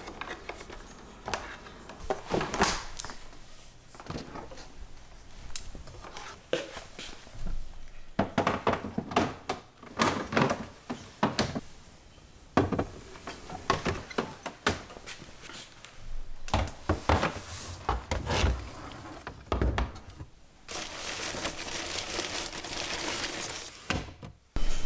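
Plastic packaging crinkling amid many light knocks and clicks of things being handled. A steady hiss lasts a few seconds near the end.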